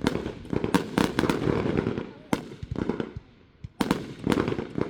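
Consumer fireworks going off: sharp bangs and dense crackling, in one cluster at the start and another near the end, with a single bang in between.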